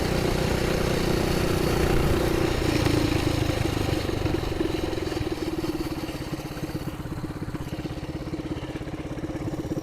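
Coleman BT200X mini bike's single-cylinder four-stroke engine running through a straight-pipe exhaust, heard from the rider's helmet microphone. Its steady pitch drops a little about two and a half seconds in and it gets quieter, settling toward idle.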